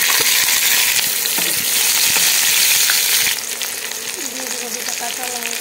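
Boiled olive slices sizzling loudly as they go into hot oil with whole spices in a frying pan. The sizzle drops to a softer, steady frying about three seconds in.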